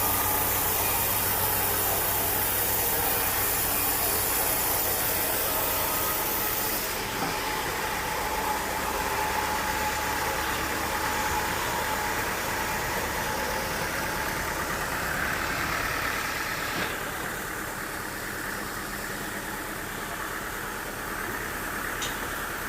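An engine running steadily. Its sound changes abruptly about seven seconds in and again near seventeen seconds.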